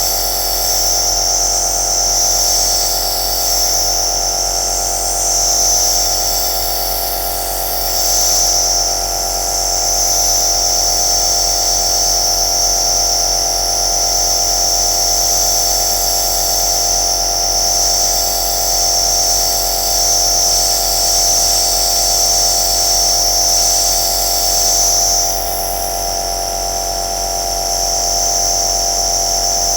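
Home compressor nebulizer running: a steady motor hum under a strong, high hiss of air, the hiss wavering slightly in strength and easing a little near the end.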